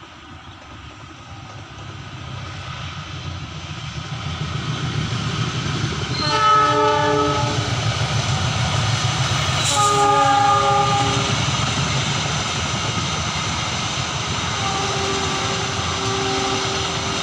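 A train approaching and passing, its rumble growing louder over the first six seconds. The locomotive sounds its horn twice, about six and ten seconds in.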